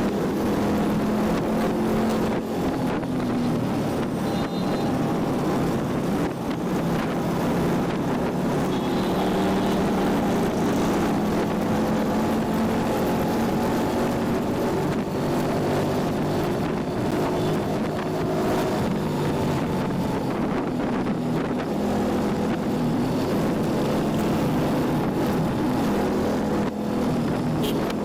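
Yamaha Junoon motorcycle engine running while riding, its note drifting up and down in pitch with the throttle, with wind rushing over the microphone.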